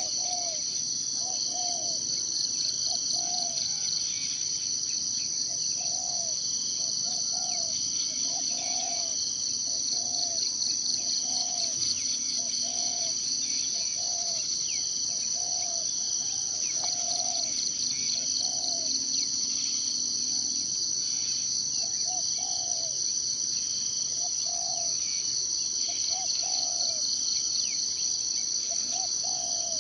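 Steady, shrill chorus of insects such as crickets or cicadas, with a short low call repeated about once a second underneath and a few faint bird chirps.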